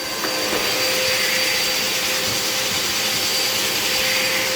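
Hoover XL Pet vacuum cleaner motor running steadily during couch cleaning: a constant whine over a rushing hiss of air.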